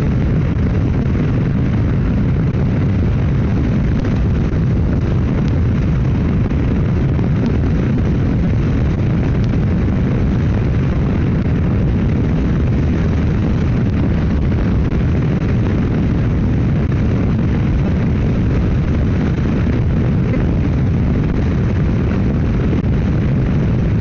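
Steady, loud rush of wind on the microphone while riding a motorcycle at road speed with the windshield lowered, really noisy.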